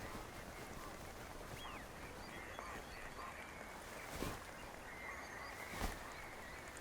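Faint outdoor wetland ambience with scattered short bird calls at a distance, and two soft knocks about four and six seconds in.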